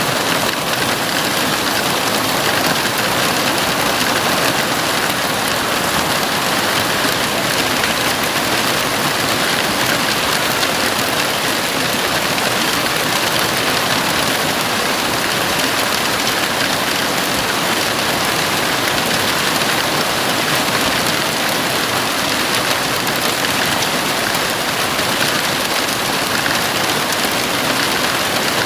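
Heavy rain falling steadily on a house roof, a dense even hiss with no distinct drops standing out.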